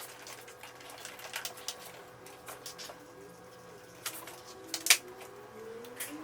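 Scattered light clicks and taps of hand work on cardboard, with one sharper tap about five seconds in, over a faint steady hum.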